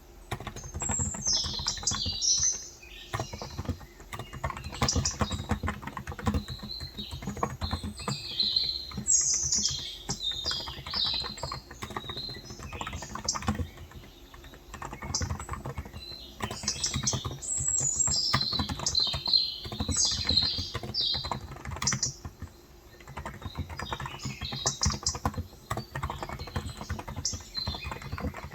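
Fast, continuous typing on a Cox Endeavor electro-capacitive tenkeyless keyboard with light 35 g switches, a dense stream of soft keystroke clicks. Small birds chirp in short bursts throughout.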